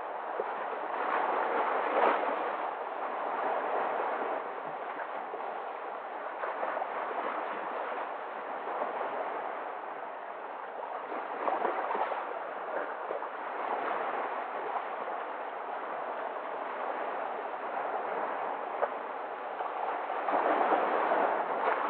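Steady rush of moving water that swells and eases every few seconds, with no other distinct sounds over it.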